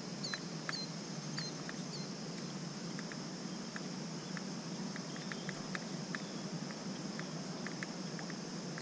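A small bird's short, high chirps repeated about two to three times a second, stopping about two seconds in, over a steady outdoor hiss with scattered faint ticks.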